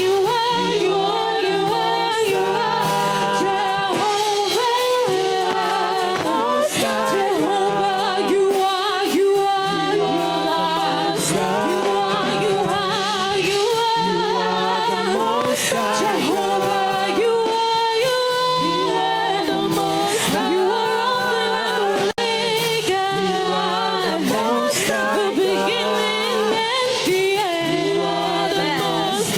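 Worship music: voices singing a slow worship song over a steady held accompaniment, with one momentary dropout about two-thirds of the way through.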